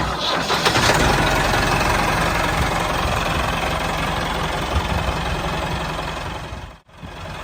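An engine running steadily at idle, with a brief break near the end before it carries on.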